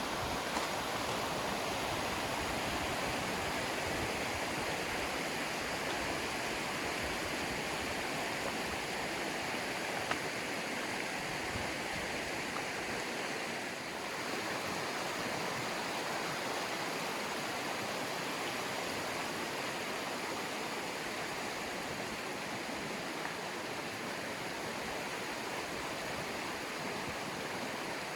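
Rushing river flowing steadily over rocks, a constant even rush of water.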